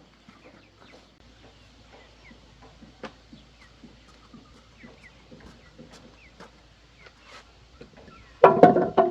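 Chickens clucking and chirping faintly, with scattered light knocks. About eight seconds in, a chicken breaks into a loud, sudden call that runs on to the end.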